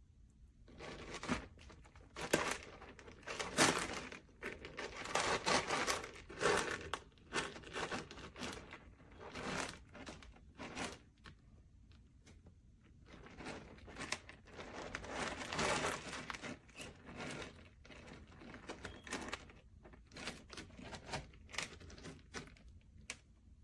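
Crinkling and rustling of packaging or similar material being handled, in irregular clusters with short pauses, now and then with light knocks.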